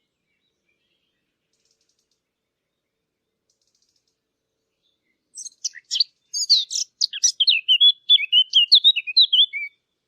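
Garden warbler singing: one long, fast warbling phrase of rapid, jumping high notes, starting about five seconds in after a silent stretch.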